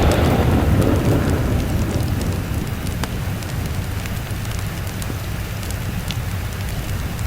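Rolling thunder that fades over the first two seconds, over steady rainfall, with scattered small sharp ticks.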